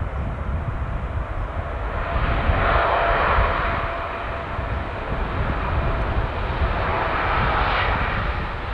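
Jet engines of a Boeing 777-200ER as it lands: a steady jet noise over a low rumble, swelling about three seconds in and again near the end.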